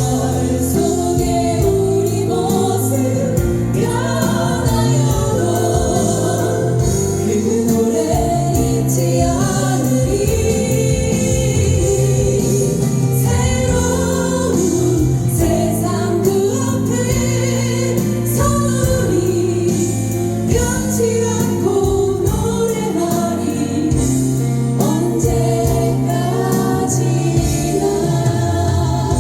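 Live music performance with singing over a steady instrumental backing.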